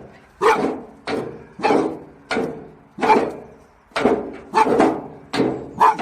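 A dog barking over and over in a steady rhythm, about ten barks, a little under two a second.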